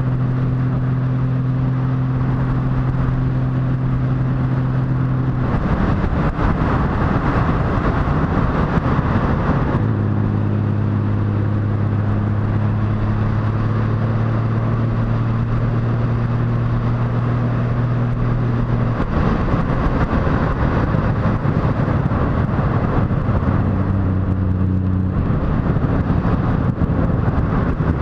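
Motorcycle engine running at steady revs while riding, its note changing pitch a few times, with a constant rush of wind noise over it.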